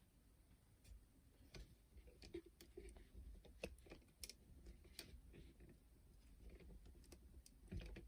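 Faint, scattered small clicks and taps of a boombox cassette deck's parts being handled while its rubber drive belts are fitted back on.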